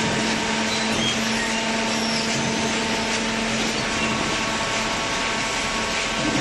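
Automatic hydraulic waste-paper baler running: a steady machine hum with an even hiss over it, with no distinct strokes or changes.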